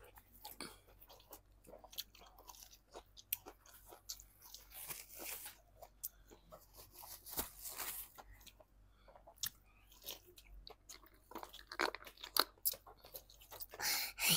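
Close-miked eating: crisp crunches, bites and wet chewing of breaded fried chicken, with louder, denser bites toward the end.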